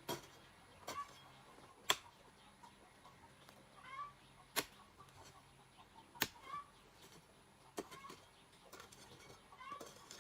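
Chickens clucking softly, with short rising calls scattered through, over sharp taps or knocks that come unevenly every second or two.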